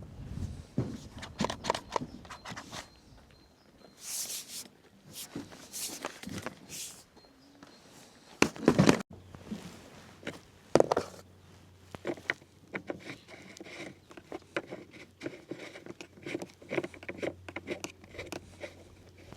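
Irregular knocks, clicks and scuffs of someone moving about and handling equipment, with the loudest knocks about nine and eleven seconds in. A faint steady low hum comes in at about nine seconds.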